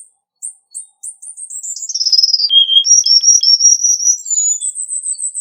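Cuban bullfinch singing one high-pitched song phrase: a few spaced notes, then a rapid run of notes falling in pitch, a single lower note, then quick notes climbing back up into a fast high trill near the end.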